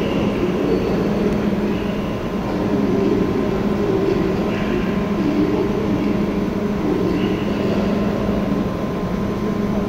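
Deutsche Bahn ICE high-speed train at a station platform, giving a steady low hum and rumble.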